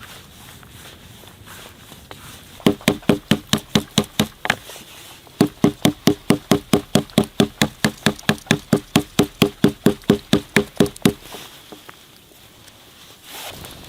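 A rapid series of sharp knocking strikes, about four a second, each with a brief ring: a short run of about eight, a pause, then a longer run of about twenty.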